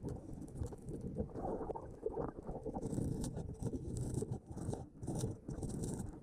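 Muffled underwater rumbling and crackling from a scuba dive. From about three seconds in comes a run of pulsing hissing bursts.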